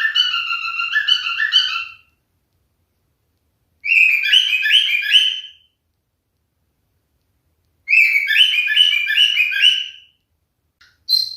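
Pied cockatiel whistling its song in three short phrases of quick repeated notes, with silent breaks between them and a few short chirps near the end.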